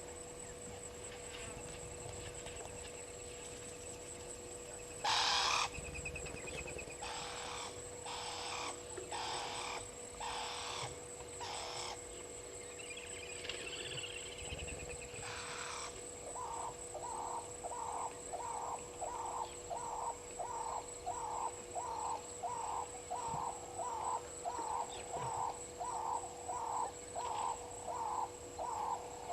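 Wild birds calling at a waterhole: a loud harsh caw, then a string of harsh calls a little under a second apart. From about halfway on, a steady run of short calls repeats about twice a second.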